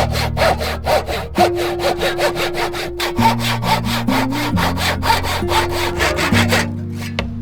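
Hand saw cutting through wood in quick, even back-and-forth strokes, about five a second, stopping about six and a half seconds in. Soft background music plays underneath.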